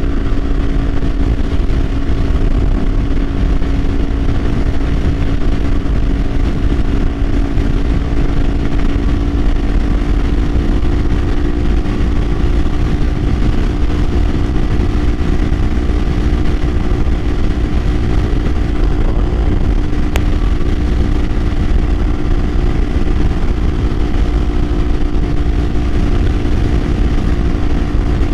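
Kawasaki Ninja 500's parallel-twin engine running at a steady cruise, its pitch holding level, under heavy wind rumble on the microphone.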